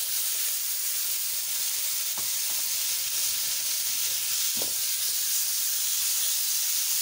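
Chopped tomato and green chilli sizzling in hot oil and fried spice masala in a metal pan, a steady hiss, with two faint clicks about two and four and a half seconds in.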